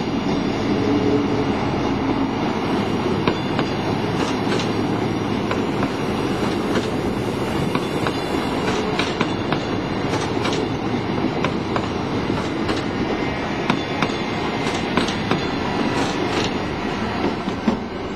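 Stadler GTW diesel multiple unit (Trenord ATR) moving slowly through the station tracks, its engine running under a steady noise. Its wheels click again and again over rail joints and points, the loudest clack near the end.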